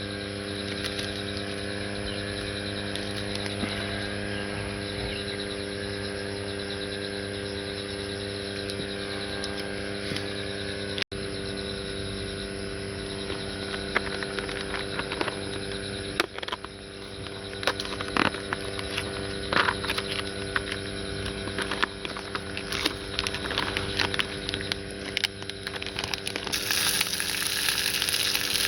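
A steady low hum with scattered clicks and knocks of cooking utensils, then food starts sizzling in a frying pan near the end.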